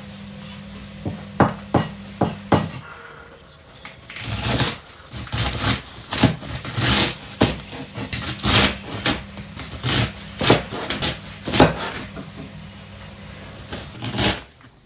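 Kitchen clatter of dishes and utensils: irregular knocks, clinks and a few scrapes.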